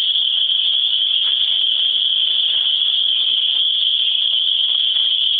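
Loud chorus of cicadas: a steady, unbroken high-pitched buzz that holds at one level throughout.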